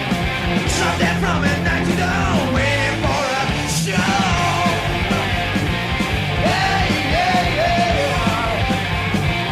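Rock song with a sung, shouted vocal over a full band, with a brief drop in the low end almost four seconds in.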